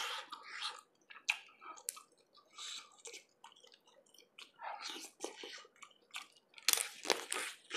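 Close-miked chewing with irregular wet smacks and clicks of the mouth as a person eats lobster in sour tamarind soup by hand.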